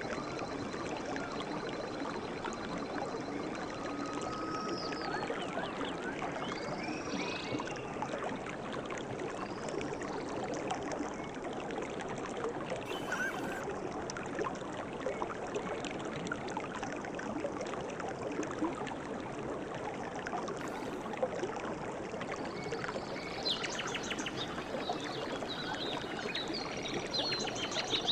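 Running water of a stream, a steady babbling and trickling, with a few short bird chirps a few seconds in and again near the end.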